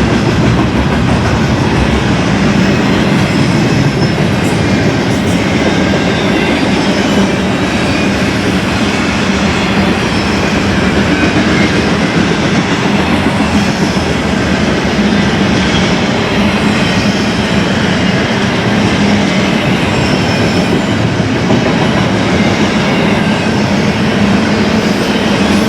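BNSF intermodal freight train rolling past, with a steady rumble and clatter of wheels over the rail joints.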